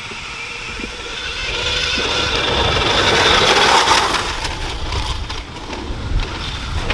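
2020 KTM Freeride electric dirt bike riding past: its electric drive whine and tyre noise swell to a peak about three to four seconds in, then fade away.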